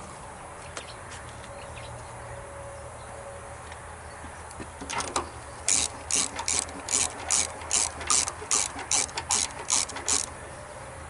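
Hand ratchet wrench worked in short back-and-forth strokes, a dozen or so rapid ratcheting bursts at about three a second in the second half, loosening or tightening fasteners on a lawn tractor's carburetor.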